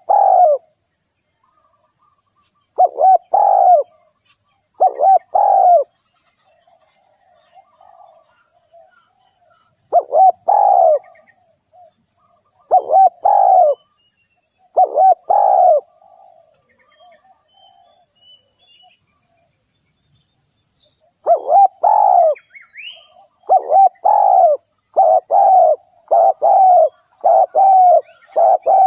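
Spotted dove cooing: short phrases of coos repeated every two to three seconds, then, after a brief gap about two-thirds of the way in, a fast run of coos one after another. This is the dove call used as a decoy to lure wild spotted doves.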